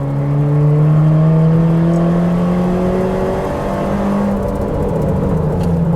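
Car engine pulling under acceleration, its note climbing slowly in pitch for about four seconds and then dropping.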